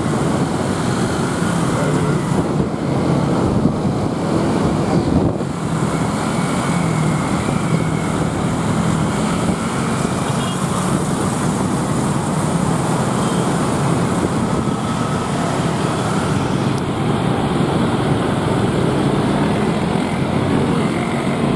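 Noise of many motorbikes in heavy traffic, heard from the back of a moving motorbike: a steady mix of engines and road rush.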